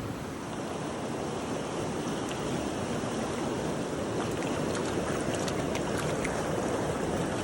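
Creek in spring runoff rushing steadily: a full, even wash of fast-flowing water with faint small ticks above it.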